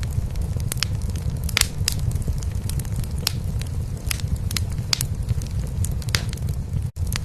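Cat purring with a steady low rumble, over a wood fire crackling in a fireplace with scattered sharp pops. Both cut out for an instant near the end.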